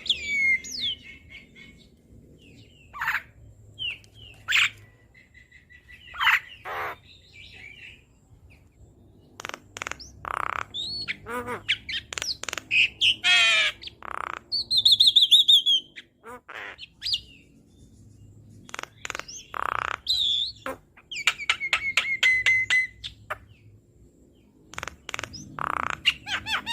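Javan myna (jalak kebo) singing a varied, busy song. It strings together gliding whistles, harsh rasping notes about half a second long that come four or five times, and rapid clicking rattles, with short pauses between phrases.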